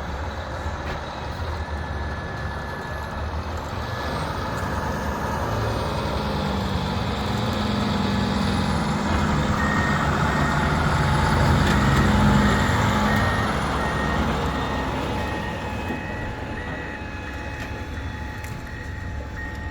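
Heavy diesel equipment running. It grows louder toward the middle and then eases off, with a reversing alarm beeping steadily through the second half.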